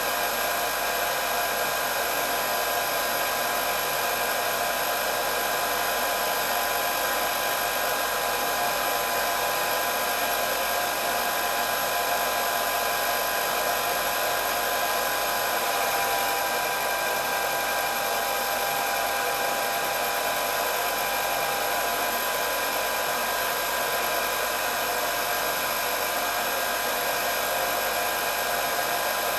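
Electric hair dryer running continuously: a steady whirring rush of air with a constant motor whine.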